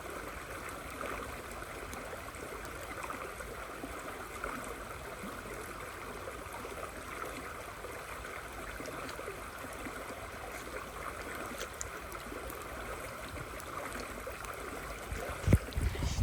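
River flowing in the rain: a steady rush of water. A few sharp low thumps near the end.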